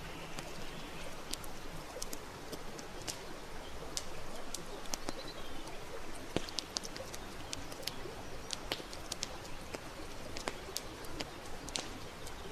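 Campfire crackling, with frequent sharp irregular pops over a steady hiss.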